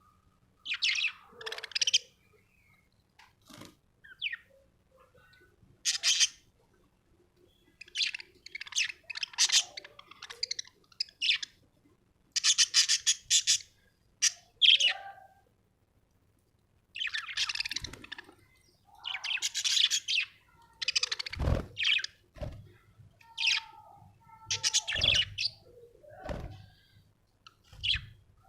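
Budgerigar chirping in short bursts of rapid high chirps and warbles, with pauses of a second or two between bursts. A few dull thumps come in the second half.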